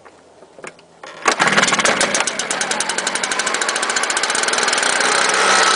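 STIHL BR420 Magnum backpack leaf blower's 57cc two-stroke engine on a cold start: a few faint clicks, then the engine catches about a second in and runs steadily at a high idle with a rapid, even firing rhythm.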